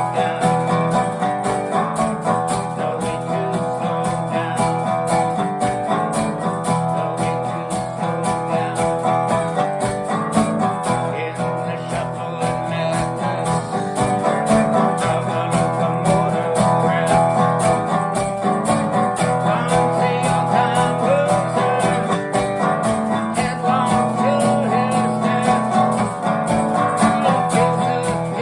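Acoustic guitar strummed in a steady, even rhythm, playing through a song's chords.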